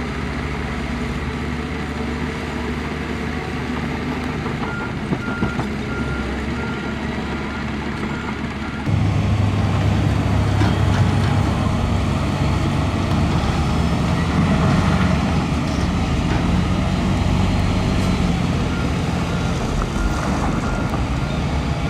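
Heavy diesel construction machinery running, with a reversing alarm beeping steadily for a few seconds in the first half. About nine seconds in, the engine sound abruptly becomes louder and deeper.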